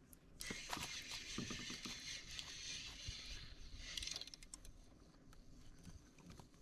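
Fishing reel being cranked, its gears whirring with a fast ratchet-like clicking for about four seconds before it stops.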